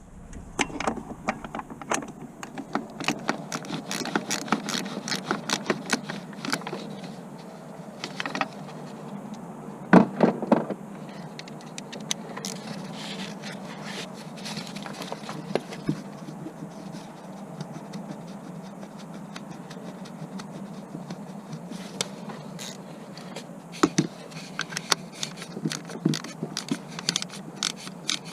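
Irregular clicks, knocks and scrapes of hand tools and metal parts being handled during clutch work, over a steady low hum. A louder cluster of knocks comes about ten seconds in.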